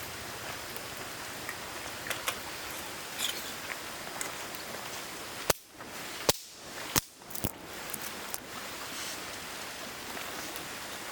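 Steady sizzling hiss with scattered small pops and crackles: steak searing on an iron griddle over a wood campfire. A few sharp clicks come between about five and seven and a half seconds in, where the hiss briefly drops away.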